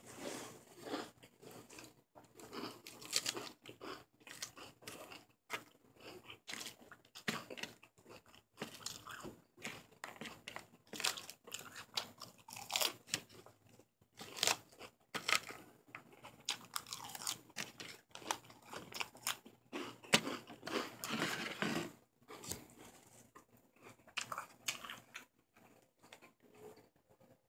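A person chewing mouthfuls of crisp raw lettuce close to the microphone, with many irregular crunches that grow sparser and quieter in the last few seconds.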